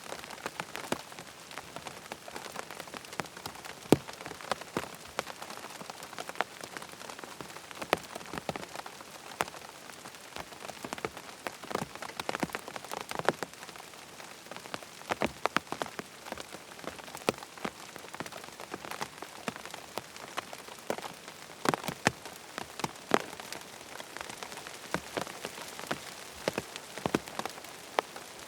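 Steady rain falling on a tent, a continuous patter with many separate heavier drops tapping sharply on the fabric.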